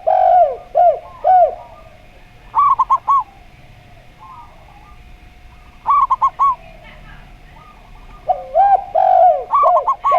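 Two doves calling in turn. A zebra dove (perkutut) gives short runs of about four quick coos, and a lower-voiced derkuku dove gives slower, drawn-out arching coos. The two call together near the end.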